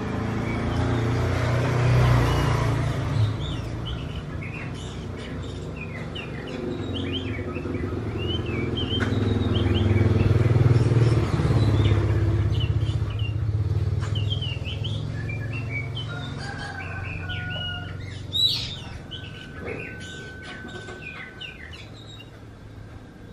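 Oriental magpie-robin (kacer) singing a run of quick, varied chirps and whistles, with one sharp rising note about three-quarters of the way through. A low rumble of passing road traffic underneath swells twice and is the loudest sound.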